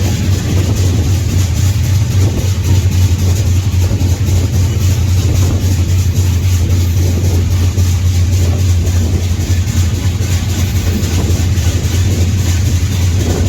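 Freight train rolling along, heard from aboard: a steady low drone under a constant noisy rumble.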